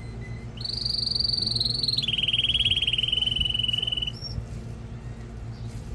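Male canary singing: a high, even trill starting about half a second in, which drops at about two seconds into a lower, rapid pulsing trill that stops about four seconds in. A low steady hum runs underneath.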